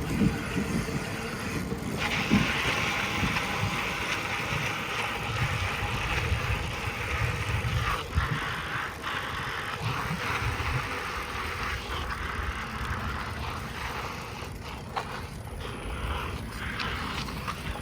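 Wind buffeting the microphone as a low, uneven rumble, under a steady hiss that grows louder about two seconds in.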